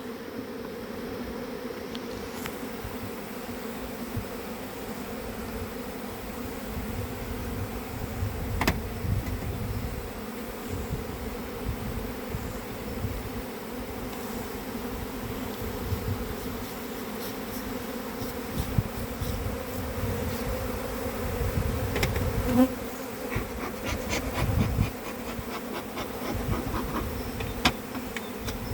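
Honeybees buzzing steadily in a dense hum around the hive, with a few sharp clicks and knocks and a run of rapid ticking in the last few seconds.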